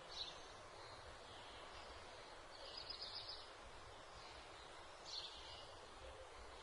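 Faint outdoor ambience with a few short, high bird chirps, about three in all.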